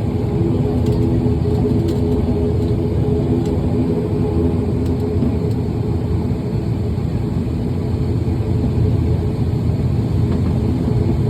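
Steady aircraft engine noise during the landing, a deep rumble with several steady hums over it.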